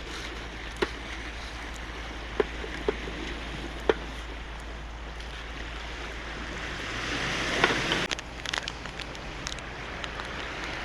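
Surf washing on a boulder-and-cobble shore with wind on the microphone: a steady rush with a low rumble, a few sharp clicks in the first four seconds, and a louder surge with crackling around eight seconds in.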